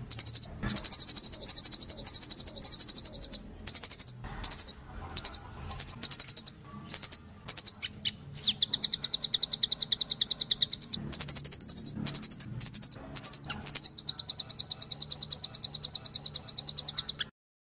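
Blue nuthatch calling in rapid trills of high, evenly repeated notes. The trills come in runs of a few seconds with short breaks between them, and the calling stops abruptly near the end.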